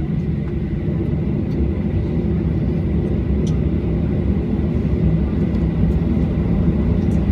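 Aeroplane engines running with a steady low rumble that grows slowly louder, and a faint high steady whine above it.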